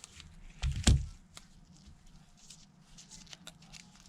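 Small tools and phone parts being handled on a workbench: one louder knock about a second in, then scattered light clicks and taps.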